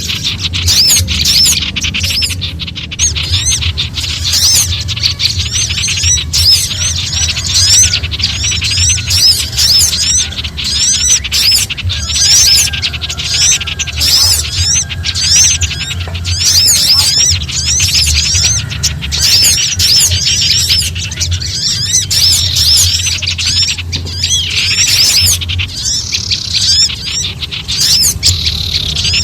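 A dense, unbroken din of small songbirds giving frightened alarm and distress calls: rapid, overlapping high chirps and chattering from several birds at once, the scolding noise of alarmed birds that draws other birds in. A steady low hum runs underneath.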